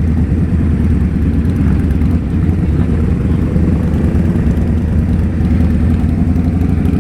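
Indian Scout Bobber's V-twin engine running steadily, a low, even rumble with no sharp revs.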